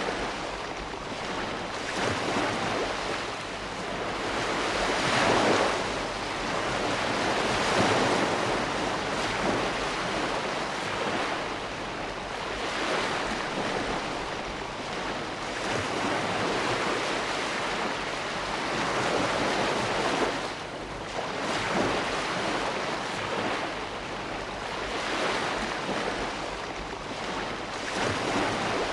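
Ocean waves breaking and washing on a shore, a continuous surf rush that swells and eases every few seconds.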